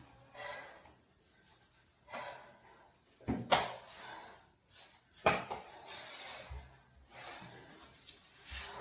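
A few separate knocks and thuds of things being handled in a small room, with quiet between them.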